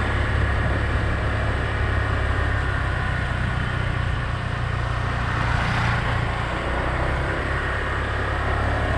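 Motor scooter riding along at a steady speed, its engine running under a steady low rumble of wind and road noise.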